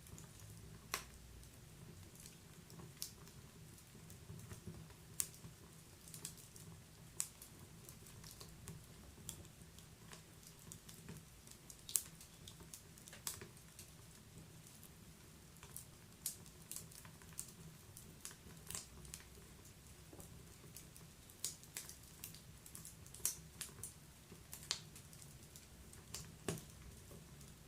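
Wood fire burning in a fireplace, with sharp irregular crackles and pops over a low steady rumble.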